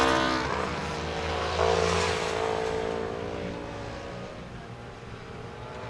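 Flat track racing motorcycles revving past and fading away down the track. Another bike comes through about a second and a half in, and the sound dies down toward the end.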